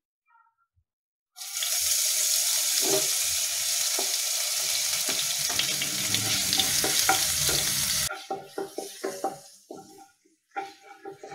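Crushed ginger, garlic and fennel seed paste sizzling loudly in hot coconut oil in a non-stick kadai. The sizzle starts suddenly about a second and a half in. About eight seconds in it drops off sharply, leaving a quieter sizzle and the clicks of a wooden spatula stirring against the pan.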